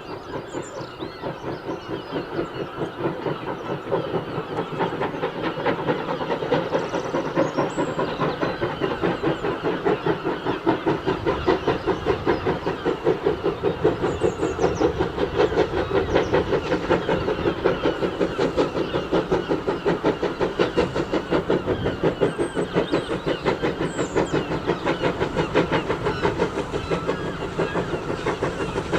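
Steam locomotive working a train, its exhaust beats in a quick, even rhythm, growing louder over the first dozen seconds as it approaches, then holding steady.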